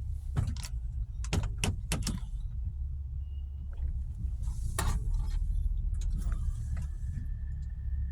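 Steady low rumble of a vehicle, with a quick run of sharp clicks and knocks in the first two seconds and another knock near the middle. A faint steady high tone comes in during the last second and a half.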